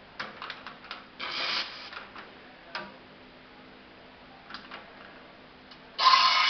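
Scattered clicks and knocks of a coffee machine being handled, with a short burst of noise about a second in. Near the end the machine starts running loudly and steadily.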